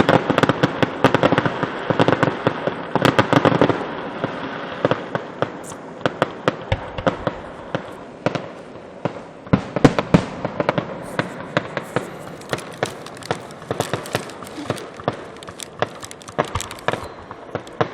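Fireworks going off: a dense run of rapid crackling pops for the first few seconds, then scattered sharp pops and crackles, with a louder cluster of bangs about ten seconds in.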